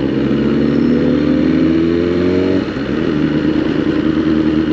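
BMW S1000RR's inline-four engine pulling hard in second gear, its pitch rising for about two and a half seconds, then dropping as the rider shifts up to third, followed by a steadier pull. Wind noise runs underneath.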